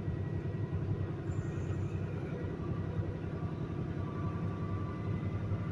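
Semi truck's diesel engine running steadily, a low, even rumble.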